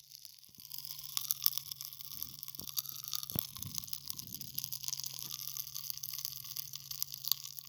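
Pop Rocks candy popping and fizzing in a mouth close to a microphone: a dense run of small irregular crackles and clicks, with a few louder pops, over a steady low hum.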